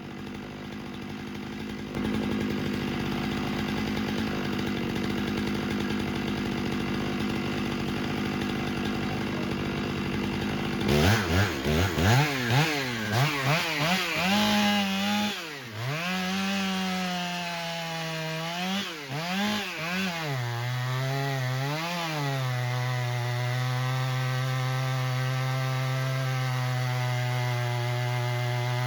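Two-stroke chainsaw engine running. It holds a steady speed at first, then is revved up and down several times from about eleven seconds in, and settles back to a steady high speed near the end.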